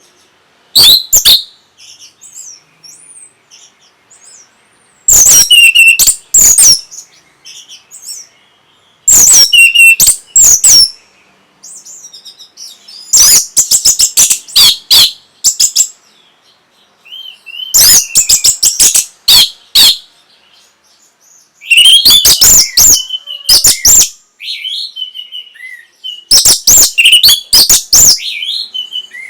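Orange-headed thrush singing: loud bursts of rapid, varied whistled phrases about every four seconds, with quieter single whistles between them.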